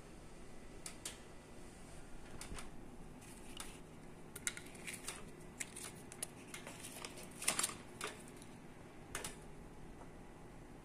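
Handling noise from installation work: irregular light clicks and taps, a few per second, with a louder cluster about seven and a half seconds in, over a faint hum.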